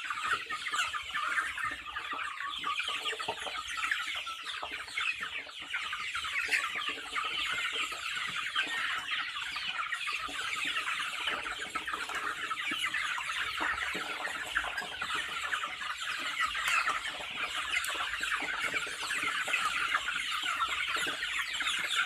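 A flock of chickens clucking and chirping continuously, many short overlapping calls at once, as they are fed.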